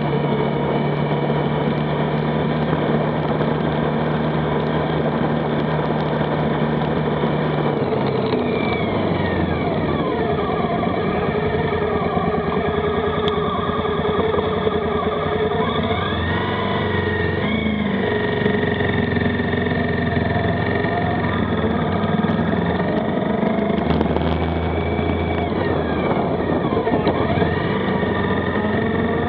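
Motorcycle engine running under way on the road. The engine note is steady at first, then shifts and glides up and down a few times from about eight seconds in, as the throttle and gears change.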